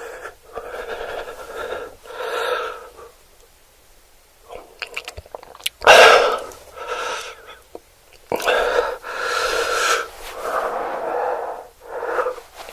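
Close-miked eating sounds: a person chewing, with loud breaths in irregular bursts of a second or so between short pauses; the loudest burst comes about halfway through.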